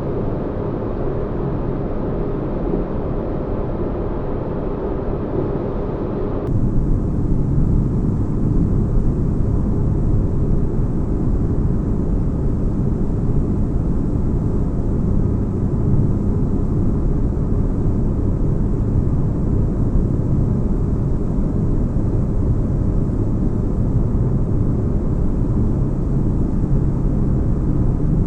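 Sci-fi spaceship cabin ambience: a steady deep rumbling drone with a faint hum, like engine noise heard inside a ship. About six seconds in it switches suddenly to a slightly louder, bassier layer.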